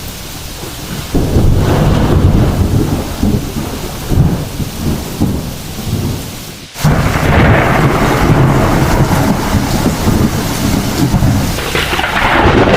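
Heavy rain falling steadily with thunder rumbling. One long roll builds about a second in and fades. A second loud roll breaks in suddenly just past halfway and carries on with the downpour.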